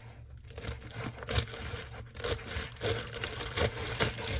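Packaging or a bag being handled: irregular crinkling and rustling with small knocks.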